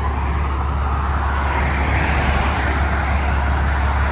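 Steady expressway traffic noise, with a vehicle passing a little louder from about halfway through.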